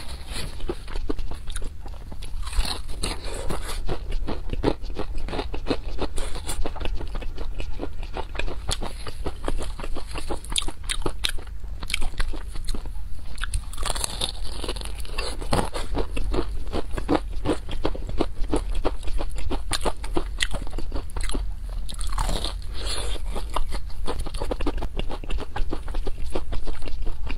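Crunching and chewing of crispy deep-fried chicken, with repeated bites into the crunchy coating and a dense run of crackling chews.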